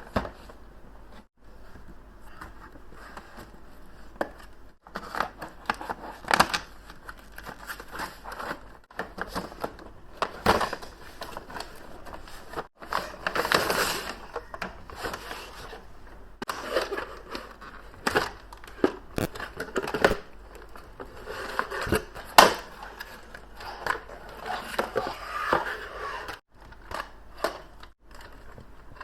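Packaging being unboxed by hand: paper and plastic crinkling, tearing and rustling with irregular sharp clicks and taps, broken now and then by brief silent cuts.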